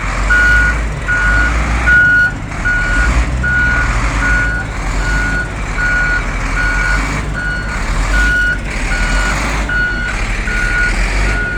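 Backup alarm of a payloader reversing, beeping evenly about every three-quarters of a second over its diesel engine running.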